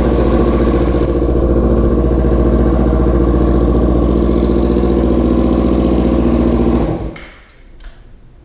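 Kawasaki Ninja 300's parallel-twin engine idling steadily through a Toce slip-on exhaust, then shutting off about seven seconds in.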